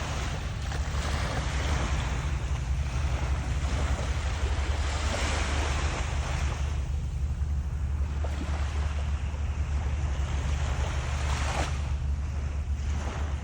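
Waves washing on a shore, the surf swelling and fading in surges, with wind rumbling on the microphone.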